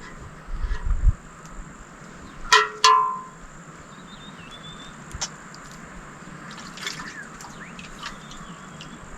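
Steady rain with water dripping and trickling, and low gusts of wind on the microphone in the first second. About two and a half seconds in, two short, loud calls with a slightly falling pitch, one right after the other, stand out from the rain.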